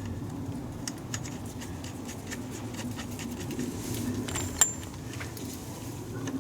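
Scattered light clicks and a sharp metallic clink about halfway through, over a steady low hum.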